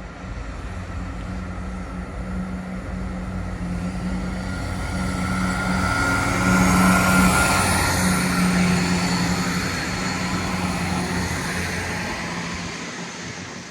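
Diesel trains departing the station: a steady engine hum and rolling noise that builds to a peak about halfway, then fades as they pull away.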